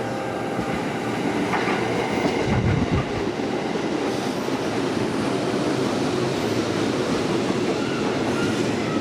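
Freight train wagons rolling past, their wheels running over the rail joints with a steady clatter and a few heavier low knocks about two and a half seconds in.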